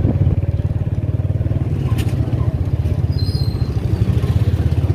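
Small motorcycle engine running steadily close by, a fast, even low thrum of its firing.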